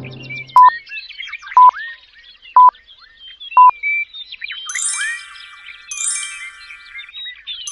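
Four short, loud electronic beeps at one steady pitch, one a second, over faint chirping. Then a bright, high chiming electronic jingle repeats about every second and a half.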